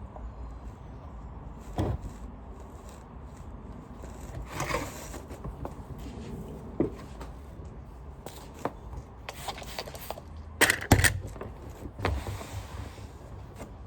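Handling noises from cleaning vacuum parts: scattered knocks and rubbing over a low steady hum, with a quick cluster of sharp knocks about eleven seconds in.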